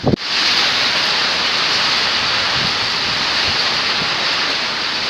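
Heavy rain pouring down in a summer storm, a steady dense hiss, after a brief low thump at the very start.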